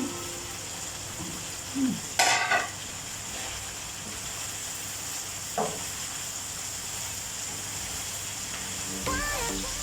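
Chicken sizzling in a pan as it is stir-fried, with a loud scrape of the stirring utensil against the pan about two seconds in and a shorter one midway. Music comes in near the end.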